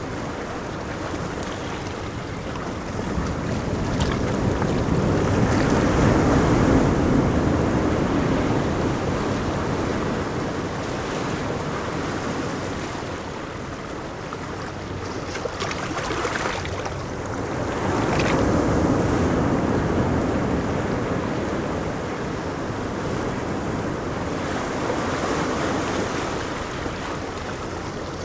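Ocean surf breaking on a beach: a continuous wash of waves that swells twice, about a third of the way in and again past the middle, then ebbs, with wind on the microphone.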